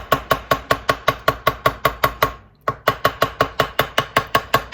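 Small hammer tapping quickly and lightly on a motorbike wheel's edge through masking tape, about six taps a second with a brief pause past the middle. Each tap has a short ring. The taps are cutting the tape to the shape of the hollow it covers.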